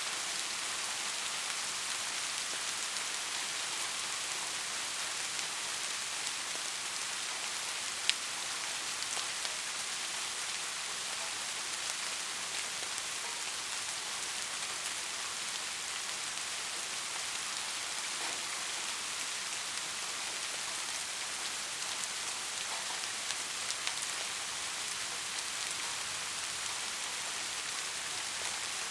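Steady, even rainfall hiss with a few sharper drop ticks, the loudest about eight seconds in.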